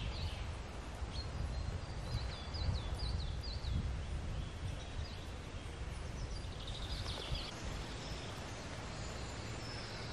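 Birds chirping in a few short runs of quick, falling high notes, around the middle and again later, over a steady low rumble of outdoor background noise.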